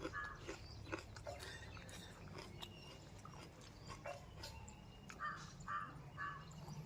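Close-up chewing and wet mouth clicks of someone eating puri and vegetable curry, with a crow cawing in the background, once near the start and three times near the end.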